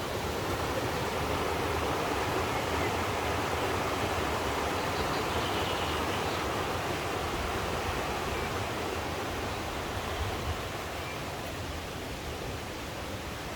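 Bistrica mountain stream rushing steadily, a little softer near the end.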